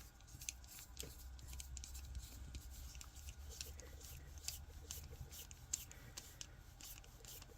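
Faint, irregular small clicks and scratches of a tiny screw being turned into a 3D-printed PLA plus knee joint and the small plastic parts being handled.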